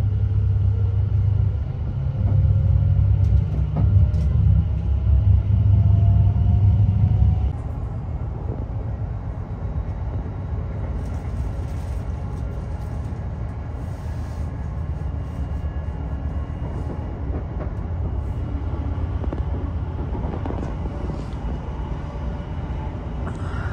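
Greater Anglia electric passenger train heard from inside the carriage as it pulls away: a heavy low rumble with a motor whine rising steadily in pitch, which drops after about seven seconds to a quieter, steady running noise.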